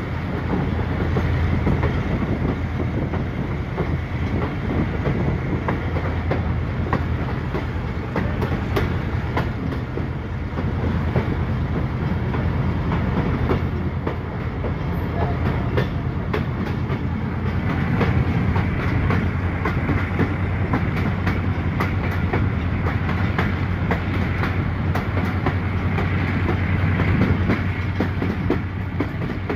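Passenger train running at speed, heard from on board: a steady rumble of wheels on rails with a low hum underneath. Runs of sharp clicks come and go as the wheels pass over rail joints.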